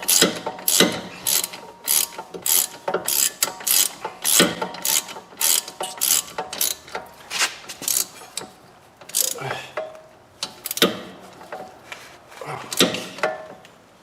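Ratchet wrench clicking in repeated back-and-forth strokes, about two a second at first and slower toward the end, as the upper bolt of a front wheel bearing hub is tightened.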